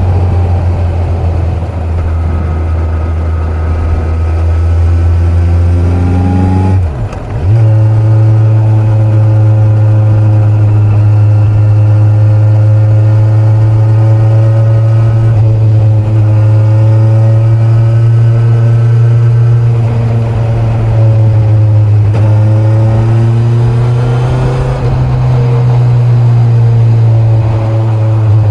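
Kawasaki Z900's inline-four engine running steadily at highway speed on board the motorcycle. About seven seconds in the revs rise, cut out briefly and pick up again. The pitch climbs a little near the end.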